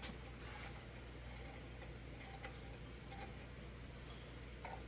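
Faint, scattered glass clicks and light scraping as a light bulb is screwed into the socket of a ceiling fan light kit.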